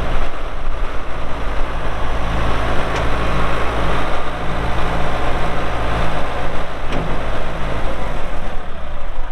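1996 New Holland 6610S tractor's diesel engine running steadily, with its note changing about eight seconds in.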